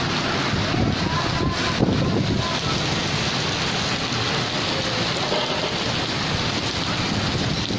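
Heavy rain pouring onto a wet street, a steady hiss.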